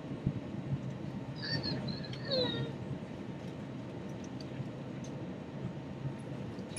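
Steady cabin noise of an Airbus A321 in flight, a low hum and rush of engines and airflow. About a second and a half in, a brief high voice-like call glides downward over it.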